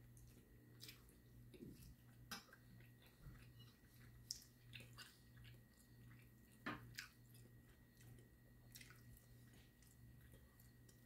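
Faint chewing and mouth sounds of a man eating steak, with a few sharp clicks of a metal fork against a plate, over a low steady hum.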